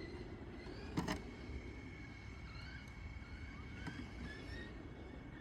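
Electric motor of a Losi Promoto-MX RC motorcycle whining faintly in the distance, rising in pitch in short throttle bursts, with a sharp click about a second in.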